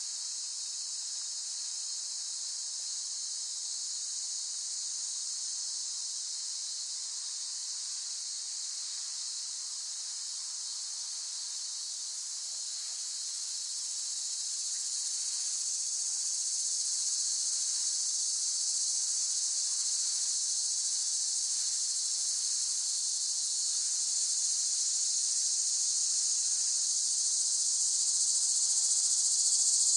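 Cicadas singing in a continuous, high-pitched chorus, growing louder from about halfway through.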